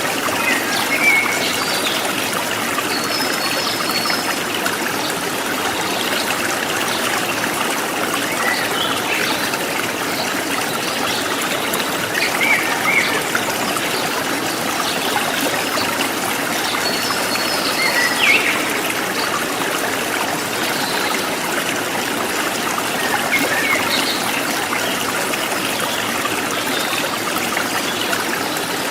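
A river stream flowing and trickling steadily, with brief higher-pitched gurgles or chirps now and then.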